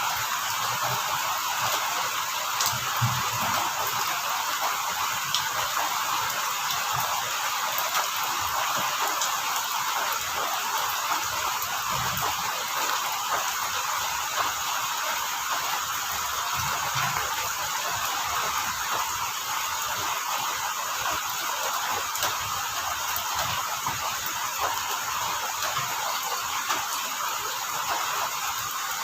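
Steady rain falling, with crickets chirping underneath, and a few soft low thuds of drops now and then.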